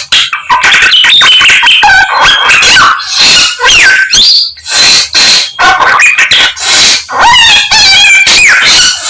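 Samyong songbird singing a loud, rapid, unbroken stream of varied chattering notes and quick rising and falling whistles. It is a full mimicry repertoire copying the songs of many other birds.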